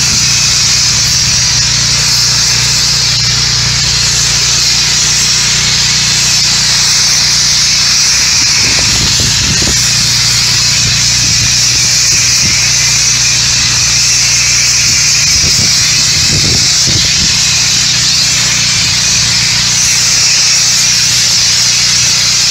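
Pressure washer engine running steadily under a constant hiss of spray from the wand as a sodium hypochlorite house-wash solution is applied, with a few faint knocks partway through.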